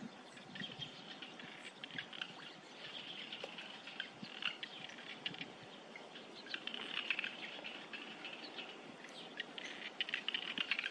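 Small birds chattering in the background: a dense, irregular run of short high chirps and ticks, busiest about seven seconds in and again near the end.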